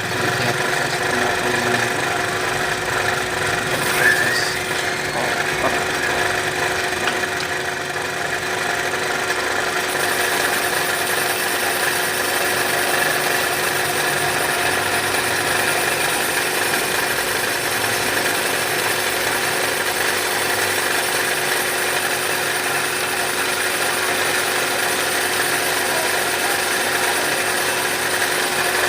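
Cylinder boring machine running steadily while it cuts the bore of a motorcycle cylinder block, a constant machine hum with a steady tone, with a single brief knock about four seconds in.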